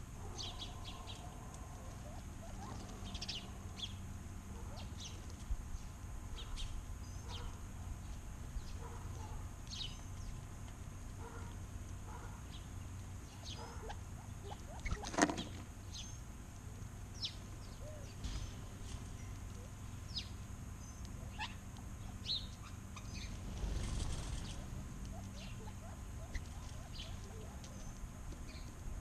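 Backyard songbirds chirping: many short, scattered high calls, with one louder sharp sound about halfway through and a steady low hum beneath.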